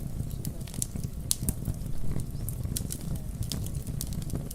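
Crackling wood fire in a fireplace, snapping and popping at irregular moments over a steady low rumble.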